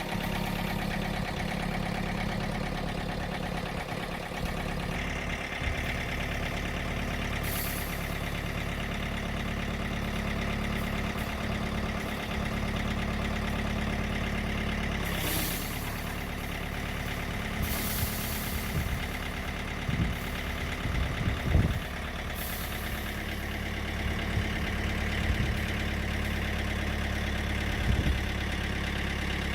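An engine running steadily at idle, with a handful of sharp knocks about two-thirds of the way through.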